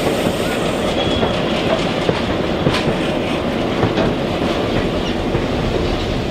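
Passenger train rolling along behind ex-Santa Fe GP7 diesel locomotives: a steady rumble and clatter of the car's wheels on the rails, with a few sharp clacks.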